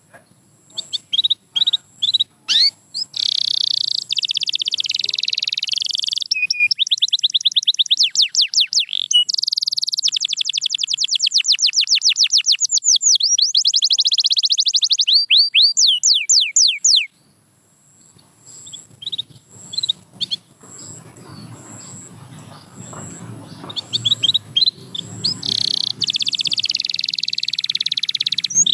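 Canary singing: long, rapid trills of quick falling notes, about ten a second, strung together in rolling phrases. The song breaks off about two-thirds of the way through and picks up again with scattered notes, then resumes loudly near the end.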